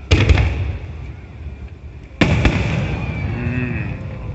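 Aerial firework shells bursting overhead: two loud booms, one just after the start and another about two seconds in, each dying away over a second or two.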